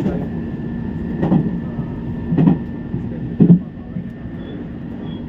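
Train running with a steady low rumble and hum, broken by short knocks about once a second, four in all, the loudest about three and a half seconds in.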